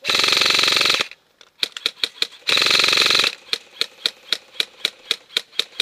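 Airsoft electric gun firing on full auto: a burst of about a second, then a shorter one, each a fast mechanical buzz of rapid shots. Between and after them, quick single shots clicking at about five a second.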